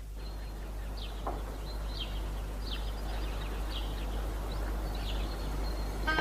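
A small bird chirping over a steady background hiss, short high falling chirps about once a second.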